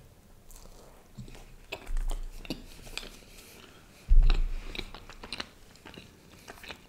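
Close-miked chewing of a mouthful of chocolate cake, with wet mouth clicks. Two low thumps at about 2 s and 4 s, the second the loudest.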